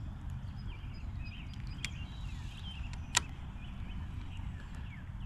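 Birds chirping over a steady low rumble, with one sharp, loud click about three seconds in and a fainter click a second before it.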